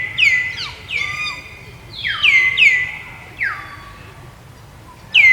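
A series of short, high-pitched animal calls, each sliding sharply down in pitch before levelling off, coming in quick clusters of two or three.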